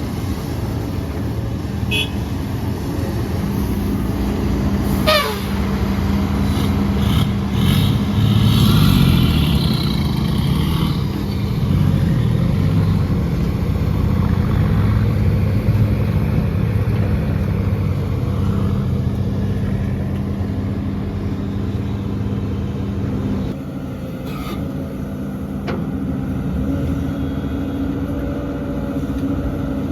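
Heavy diesel earthmoving machinery, an excavator with dump trucks, running with a steady engine drone. A brief falling whine comes about five seconds in.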